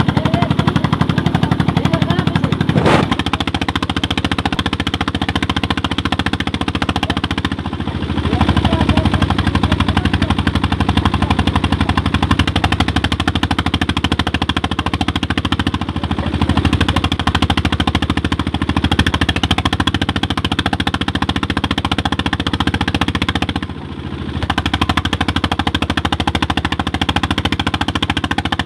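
Old Petter diesel engine of a tubewell running steadily, its exhaust beating in a fast, even, loud chatter. The sound dips briefly three times.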